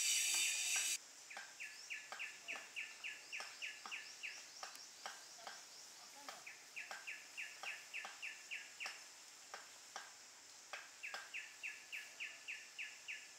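A bird calling in long runs of short, evenly spaced chirps, several a second, pausing twice. Before that, a loud hiss cuts off suddenly about a second in.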